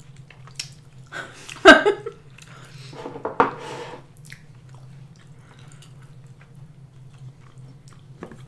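Close-miked eating sounds of sushi rolls: chewing and wet mouth noises with a few light clicks. A couple of louder bursts come in the first four seconds, then only soft chewing over a steady low hum.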